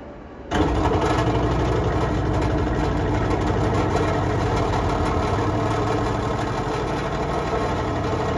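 Steady drone of a train's engine, starting suddenly about half a second in.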